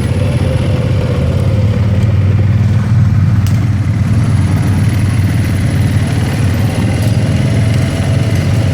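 ATV engine running at a steady pace, an even, continuous low sound.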